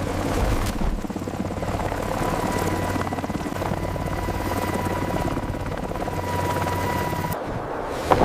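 A steady motor-like drone with a fast, even pulsing, like rotor chop or a running engine. A thin steady whine joins it about two seconds in and stops shortly before the end.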